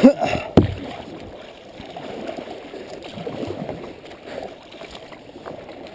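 Water sloshing and splashing around a kayak as it is paddled, with a single sharp knock about half a second in.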